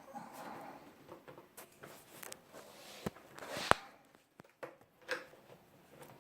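Handling noises: rustling with scattered sharp clicks and knocks, the loudest a single sharp click about two-thirds of the way through.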